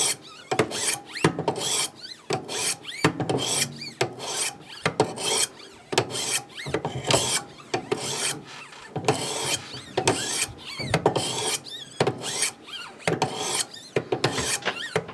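600-grit stones of a Wicked Edge Go guided sharpener drawn along both sides of an S35VN steel knife blade in alternating strokes: a rasping scrape repeated about three times a second as the edge is refined.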